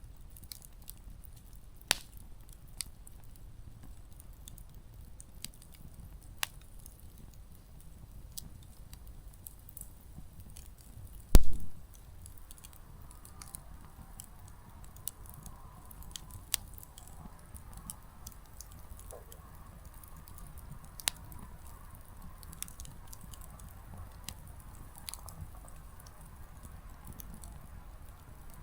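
Small wood campfire crackling, with scattered sharp pops from the burning firewood and one much louder pop about eleven seconds in. From about twelve seconds a faint hiss runs under the crackle.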